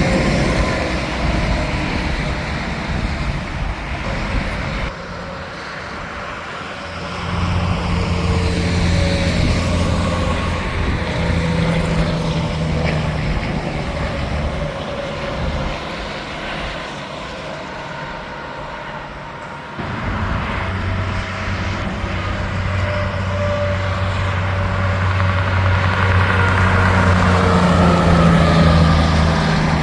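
Tractor-trailer trucks going by on an interstate highway: diesel engine hum and tyre noise, rising and falling as each one passes, with abrupt changes in the sound about five and twenty seconds in.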